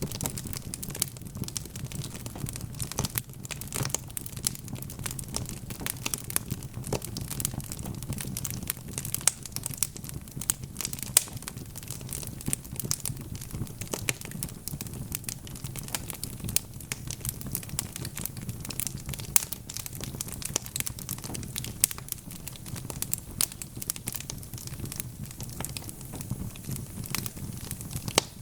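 Wood fire crackling, with many irregular sharp pops and snaps over a low, steady rumble of the flames.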